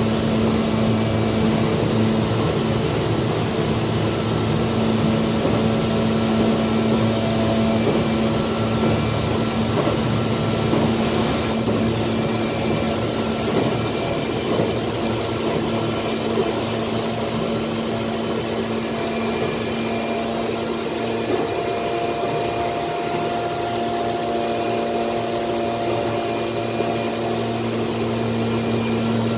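Tokyu 8500 series electric train running between stations, heard from inside the car: a steady rumble of wheels on rail with a constant low electrical hum and faint whines that come and go.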